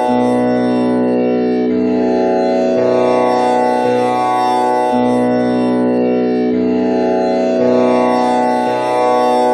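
Tanpura drone in B, its first string tuned to komal Ni (the flat seventh) instead of Pa. The strings are plucked one after another in a cycle that repeats about every five seconds, each note ringing on into the next in one continuous, loud drone.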